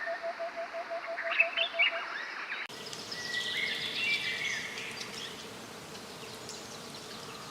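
Birds chirping over a rapid, evenly pulsing call of about seven or eight beats a second, which stops about two seconds in; after an abrupt change, only bird chirps go on.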